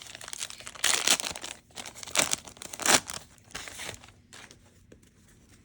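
A trading-card pack wrapper being crinkled and torn open, several sharp crackling rustles in the first three seconds that then die away.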